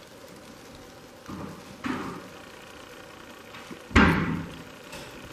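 Steady rain falling, with a couple of soft knocks and one sudden loud thump about four seconds in that dies away over about a second.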